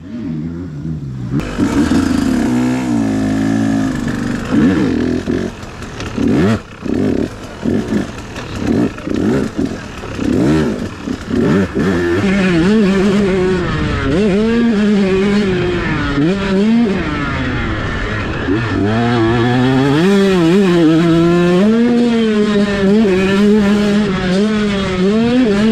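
Dirt bike engine revving. Short throttle blips come first; from about halfway it runs continuously, its pitch rising and falling as the throttle opens and closes.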